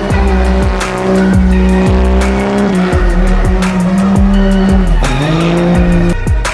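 Music with a steady beat and sliding bass, mixed with a vehicle engine held at high revs and tyres squealing, as in a truck burnout. The engine note dips and climbs back about five seconds in.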